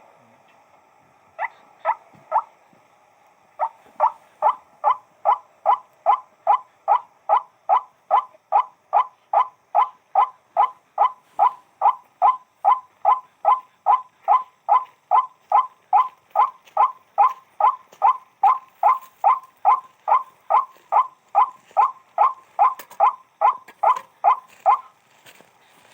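White-breasted waterhen (burung wak-wak) calling: a few scattered notes, then from about three and a half seconds in a long, unbroken run of short, even calls, about two a second.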